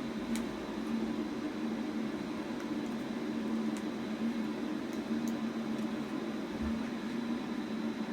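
Electric fan running with a steady whir and low hum, with a few faint ticks.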